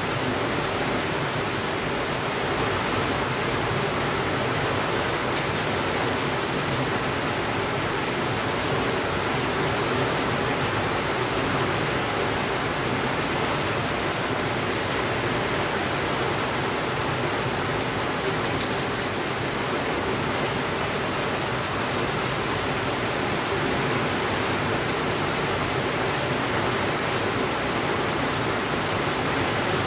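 Steady rainfall, an even hiss without thunder, with a few faint ticks here and there.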